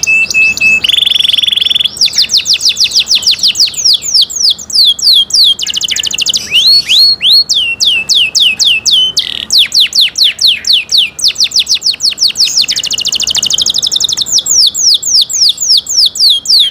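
Domestic canary singing a long unbroken song. It opens with a held whistle and a short buzzing roll, then moves into fast trills of repeated downward-sweeping notes, changing to a new trill every few seconds.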